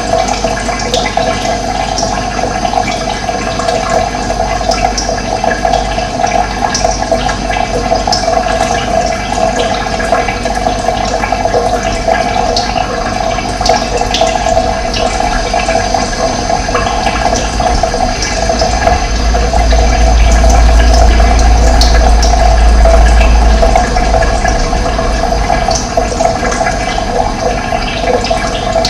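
Steady rush of running water, with a deep rumble that grows louder for about five seconds past the middle.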